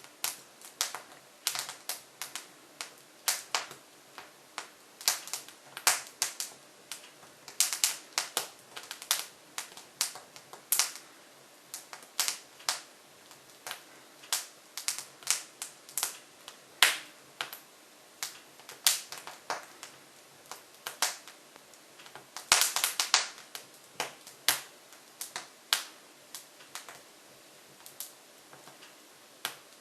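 Hardwood logs crackling and popping in the open firebox of a Jøtul F500 cast-iron wood stove: irregular sharp snaps, several a second, with a cluster of louder pops about two-thirds of the way through.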